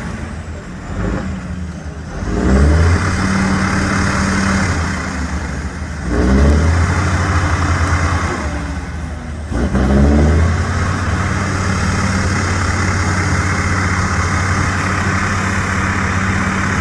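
Competition trial truck's engine revving hard: it climbs sharply in pitch about four times, dropping back briefly between, and is held at steady high revs through most of the second half.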